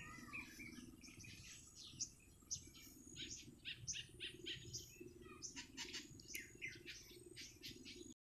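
Faint birds chirping: many short, high calls in quick succession over a low steady hum. The sound cuts off abruptly near the end.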